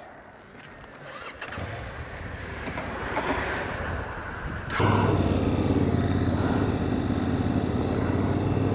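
Motorcycle traffic noise builds slowly. About halfway through, a motorcycle engine cuts in suddenly and runs at a steady, even pitch to the end.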